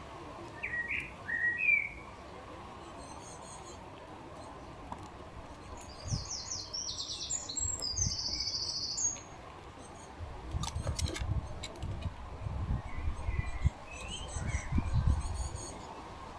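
Small garden birds calling: a few short chirps, then a rapid high trill lasting a few seconds about six seconds in, and fainter chirps later. Low bumps and rumbles come through in the second half.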